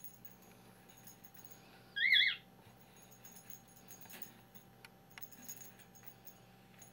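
Cockatiel giving one short, wavering chirp about two seconds in. Faint clinks of its small toy bell are scattered around it.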